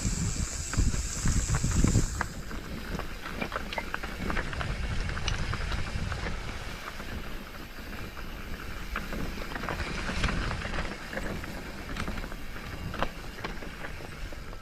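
Wind buffeting the microphone in gusts, strongest in the first two seconds, with scattered irregular clicks of footsteps on a trail. A high insect buzz fades out about two seconds in.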